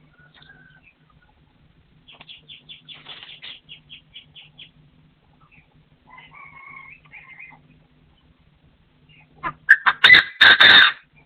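Partridges calling: a rapid run of short chattering notes, a shorter call a few seconds later, then a loud burst of calls near the end. A faint steady low hum runs underneath.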